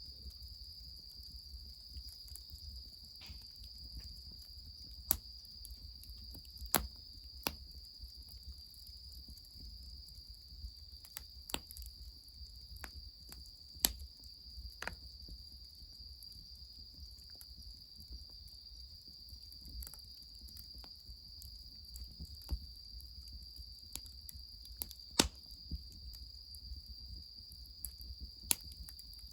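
Firewood crackling in a fire, with sharp pops at irregular intervals over a steady, high insect trill, likely crickets, and a low steady rumble underneath.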